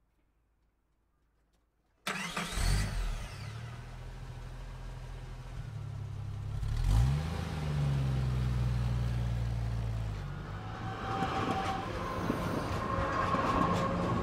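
Dead silence for about two seconds, then a dubbed car engine sound effect starts up, revs once about halfway through, and runs on steadily.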